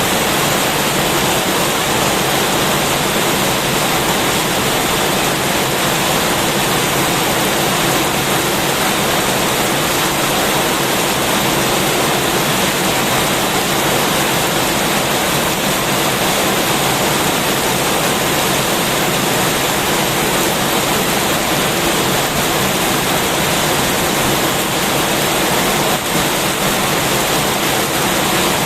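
Heavy rain falling, a steady dense hiss with no single drops, thunder or other events standing out.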